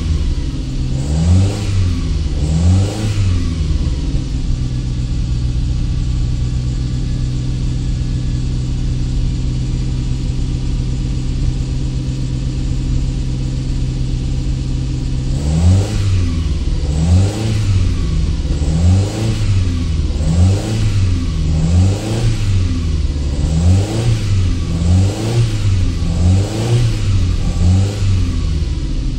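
The 308's engine idling, blipped twice near the start, then holding a steady idle; from about halfway on it is revved in a run of quick throttle blips, roughly one a second. It is running just after its first start in three months.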